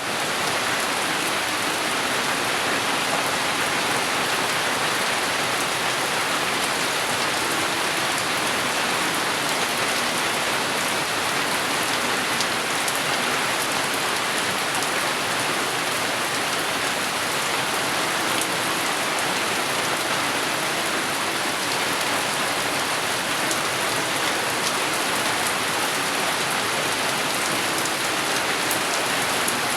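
Steady, even rainfall, with scattered individual drops ticking; no thunder.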